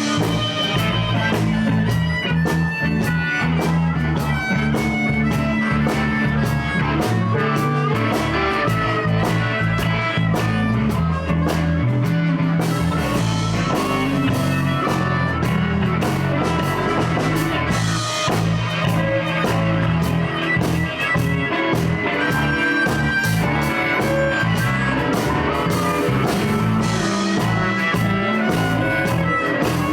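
Live blues band playing an instrumental break between verses: electric guitar, bass and drum kit with harmonica, in a steady shuffle groove.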